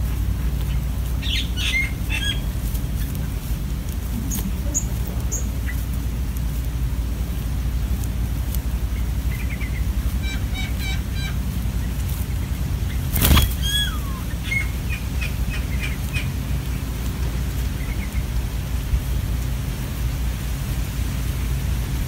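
Scattered short bird chirps and whistles over a steady low rumble, including one downward-gliding whistle. There is a single sharp knock about halfway through.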